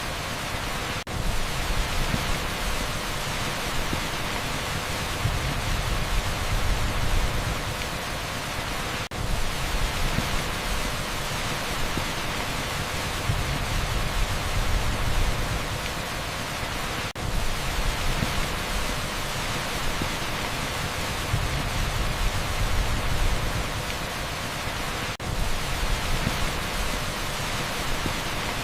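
Heavy rain pouring onto asphalt, a dense steady hiss blended with pink noise, with a low rumble that swells and fades and a brief dip in level about every eight seconds.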